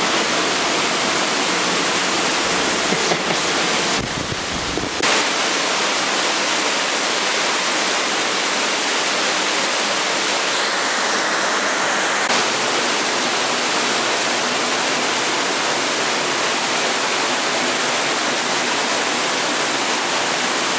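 Waterfall in an underground river channel: water pouring with a steady, loud rush. About four seconds in it turns briefly muffled, with a low rumble.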